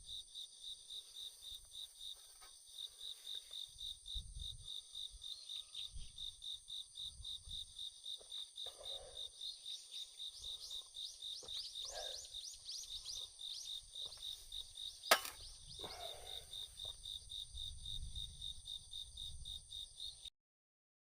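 Insects chirping in a steady, even pulsing rhythm, with one sharp crack about fifteen seconds in. The sound cuts off shortly before the end.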